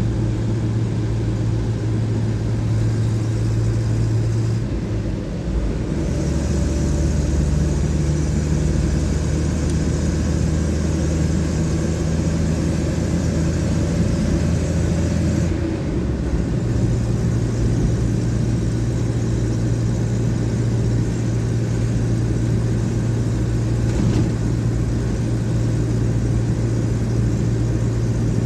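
1979 Chevrolet Caravan driving on a highway, its engine and road noise a steady low drone. The drone drops in pitch about five seconds in and comes back up past the middle. A higher hiss rides over it from about six to fifteen seconds.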